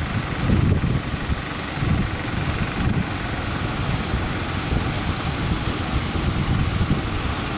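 Strong wind gusting across the microphone, with breaking surf underneath.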